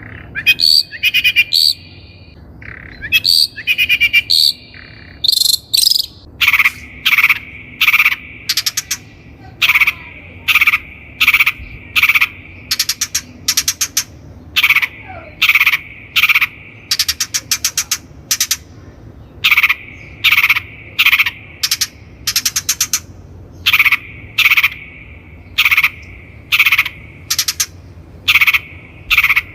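Long-tailed shrike (cendet) calling: a few chirpy whistled notes, then a long steady series of short, harsh rasping notes, more than one a second, with brief pauses.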